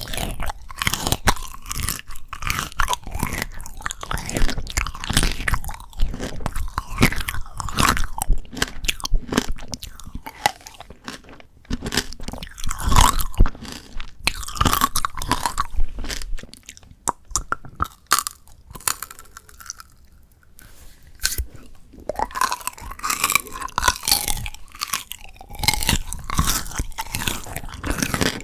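Close-miked crunching and chewing of frozen shine muscat grape tanghulu: the hard candied sugar shell cracks in sharp, dense crackles between the teeth. The crunching thins out and goes quieter for a few seconds about two-thirds of the way through, then picks up again.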